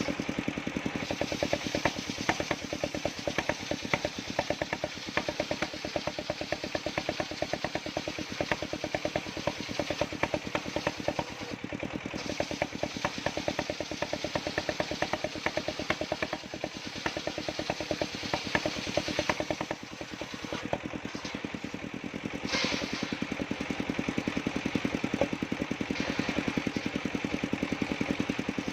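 The engine powering a sawmill circular saw running steadily, with a rapid, even beat and a steady hum; it grows a little louder in the last few seconds.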